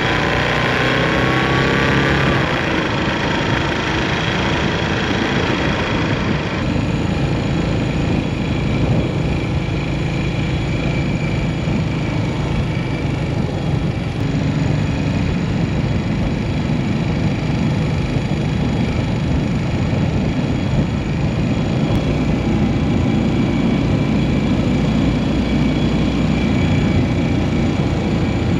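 Yamaha SR400 single-cylinder engine running while the motorcycle is ridden, with a steady rush of noise over it; the revs rise briefly near the start.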